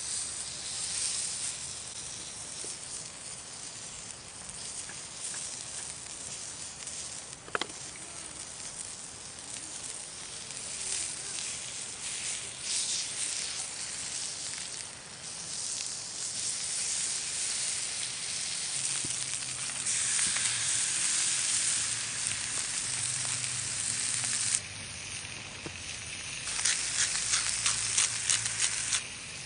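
Meat searing on a hot iron griddle over a wood fire, sizzling steadily and rising and falling in strength. A run of sharp crackling pops comes near the end.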